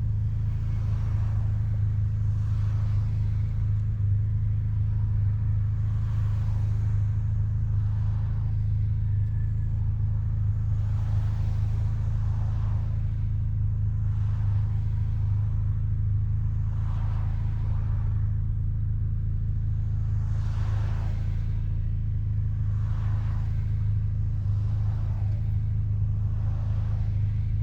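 Mazda RX-7's rotary engine running through an RE Amemiya Dolphin Tail 90 Curl exhaust, heard from inside the cabin with the windows down: a steady low exhaust drone that holds one pitch. A softer rushing swells and fades every second or two.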